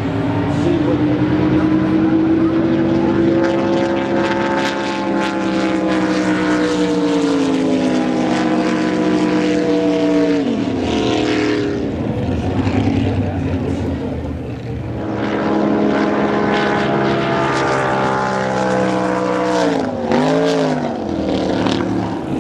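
Drag boat engine running loud with its pitch slowly falling, then dropping away about ten seconds in; a few seconds later another engine note comes up and dips briefly near the end.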